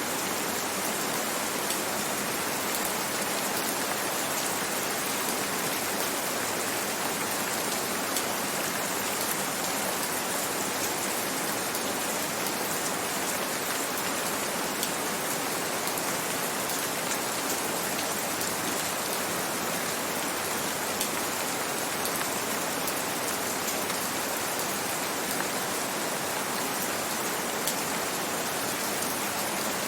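Steady rain, an even hiss with faint scattered drop ticks, unchanging throughout.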